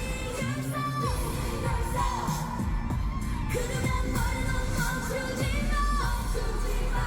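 K-pop performance audio: a female vocal line singing over a pop backing track with heavy bass.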